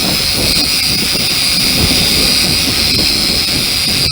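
SJRC S30w GPS quadcopter hovering, its propellers holding a steady high whine, with wind buffeting the microphone.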